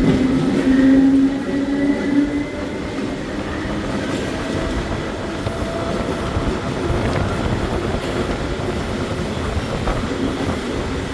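Electric multiple-unit metro train running along the track, an even rumble and rattle of wheels on rail. For about the first two seconds a steady whine sits over the rumble.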